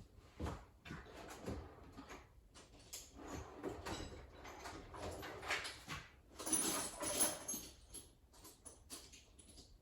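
Faint, irregular knocks, shuffles and clatter of someone walking to a toolbox and rummaging for a Torx bit, busiest about six and a half to seven and a half seconds in.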